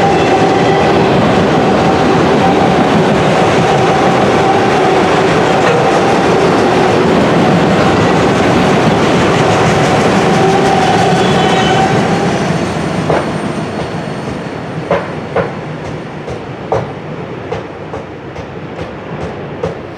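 Autorack freight cars rolling past close by on steel wheels and rails: a loud steady rumble with a steady wheel squeal. About twelve seconds in, the last car goes by and the sound drops off. What remains is a fainter rumble from the receding train, with scattered sharp clicks.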